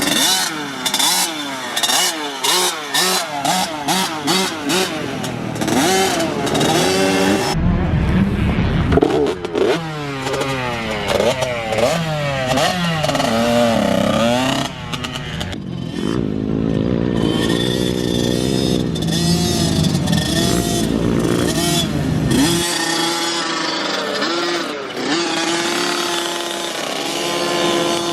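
Small two-stroke youth dirt bikes riding, the engine pitch rising and falling again and again as the throttle is opened and closed. In the first few seconds the throttle is chopped on and off rapidly.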